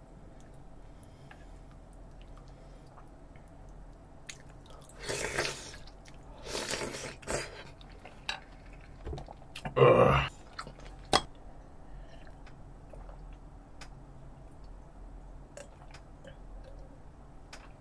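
A person eating meat stew close to the microphone: chewing and slurping, with short noisy bursts about five and seven seconds in and a louder one about ten seconds in, and a few small clicks in between.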